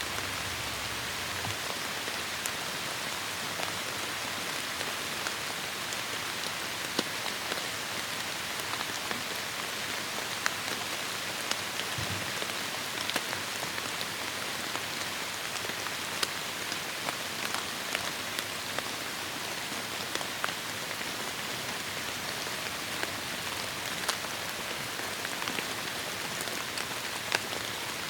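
Heavy rain falling steadily on forest foliage, a dense even hiss with many sharp individual drops striking close by.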